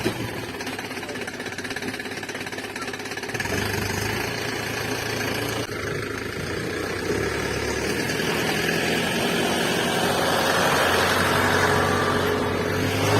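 A small electric motor running continuously with a rattling buzz, getting somewhat louder in the second half.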